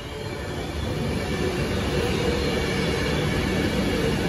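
Avanti West Coast Class 390 Pendolino electric train running past along the platform. Its rumble and wheel noise grow louder over the first two seconds as the carriages draw level, then hold steady under a faint whine.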